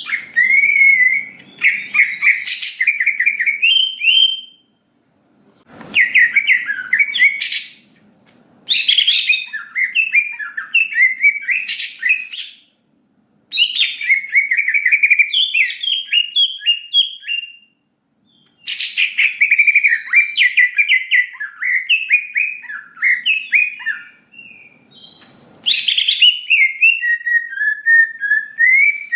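Cucak ijo (greater green leafbird) singing loudly in repeated phrases of fast, warbling notes, with short pauses between them and a few sharp, very high notes. This is the continuous 'gacor' song played to provoke other males.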